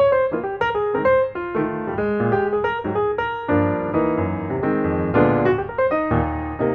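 Background music played on piano: a quick run of notes and chords that stops abruptly at the end.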